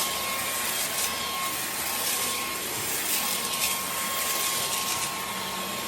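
Deerma vacuum cleaner running steadily: a loud rush of air with a steady whine from the motor.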